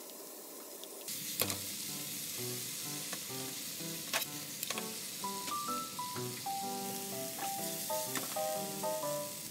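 Shrimp and cubed potatoes frying in oil in a pan. The sizzling grows louder about a second in as the potatoes are tipped in, with a few sharp knocks as they are stirred with chopsticks.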